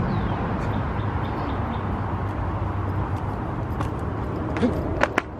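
Steady low outdoor rumble with no clear pitch, ending with a few sharp clicks.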